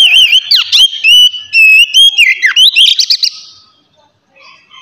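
Oriental magpie-robin (kacer) singing a loud, clear whistled song: a quick run of varied notes with sweeping up-and-down glides, stopping about three and a half seconds in.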